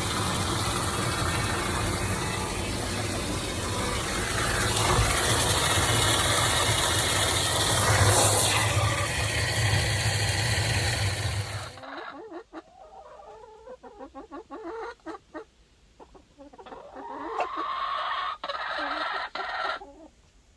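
A loud, steady rushing noise that cuts off suddenly about twelve seconds in, then chickens clucking quietly, more clearly near the end.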